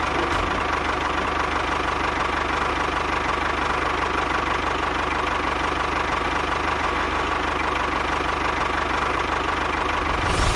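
A small motor running steadily, with a faint steady whine, until a louder sound cuts in at the very end.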